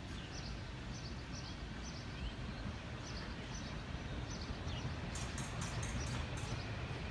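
Kawasaki M9 electric multiple-unit train approaching on the rails: a low rumble slowly growing louder, with a few short high hisses about five seconds in. Small birds chirp over it.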